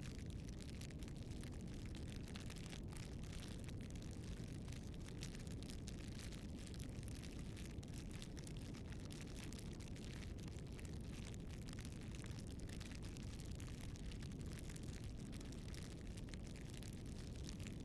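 Spartherm ebiosfire bioethanol fireplace burning: a faint, steady low rushing with light scattered ticks.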